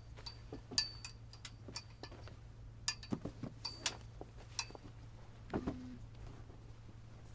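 Clothes hangers being hung on a rail: irregular light clicks and clinks, several with a brief metallic ring, and a duller knock a little after halfway.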